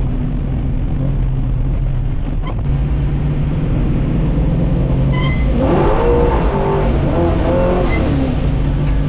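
Small-block Chevy V8 in a 1964 Buick Special running steadily, heard from inside the car. For a few seconds past the middle, a higher wavering tone rises and falls over the engine.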